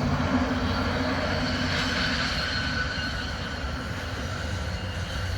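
Train rolling past on the track: a steady rumble of wheels on rail, with faint steady high squeal tones from the wheels.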